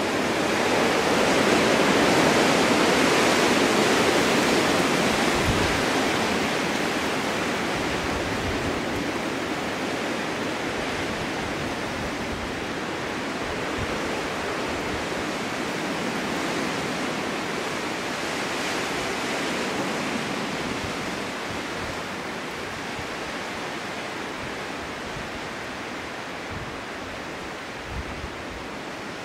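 Snowstorm wind blowing through snow-covered forest, a steady rushing noise. It swells in a gust a couple of seconds in, then slowly eases off.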